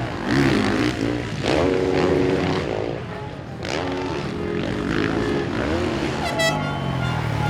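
Motocross bike engines revving hard as bikes race past, their pitch climbing and dropping over and over with throttle and gear changes.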